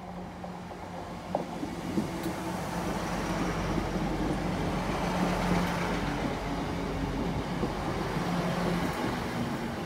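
Class 158 diesel multiple unit running into the platform and passing close by, its diesel engines humming steadily over the rumble of wheels on the rails. It grows louder over the first few seconds.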